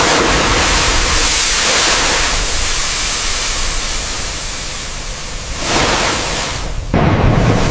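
A loud, steady hiss of rushing noise, like spray or a blast of air. It changes abruptly about six seconds in and again near seven seconds.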